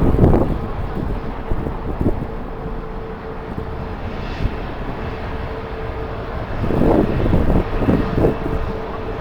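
Jet airliner engines running at an airport, a steady hum, under strong wind buffeting the microphone in low rumbling gusts, just at the start and again from about seven seconds in.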